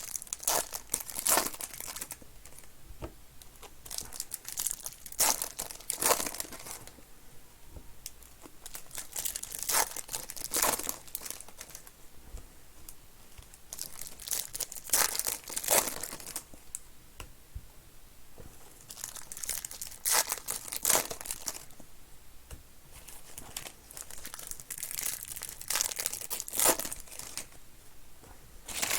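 Foil trading-card pack wrappers being torn open and crinkled by hand, in irregular bursts of ripping and rustling.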